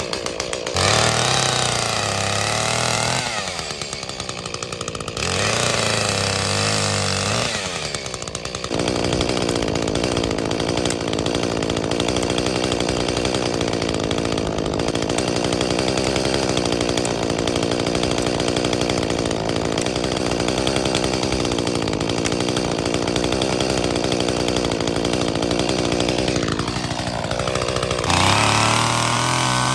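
Two-stroke gas chainsaw revving up and down twice, then held at full throttle for about twenty seconds, as when cutting through wood, before dropping back toward idle near the end.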